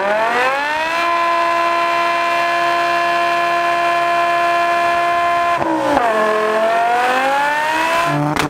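BMW 6 Series coupe's engine held at high revs while its rear tyres spin in a smoky burnout. The revs climb, hold steady for about four and a half seconds, drop sharply, then climb again.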